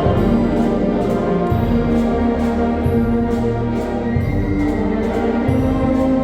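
Mixe philharmonic wind band from the Oaxacan sierra playing: sustained brass chords over a low bass line that changes note every second or so, with regular percussion strokes.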